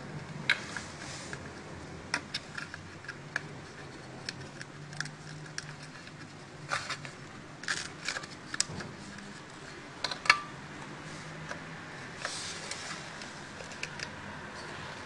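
Irregular small clicks and taps of a chocolate fountain's parts being handled while a replacement circuit board is fitted, with the sharpest clicks about half a second in and about ten seconds in, over a faint steady low hum.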